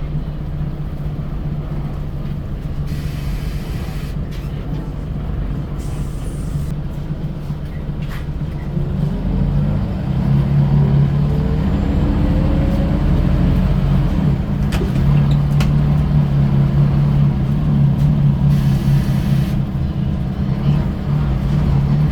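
Diesel engine of a Scania L94UB single-deck bus running steadily, then pulling harder from about nine seconds in with rising whines as the bus accelerates, and staying louder after that.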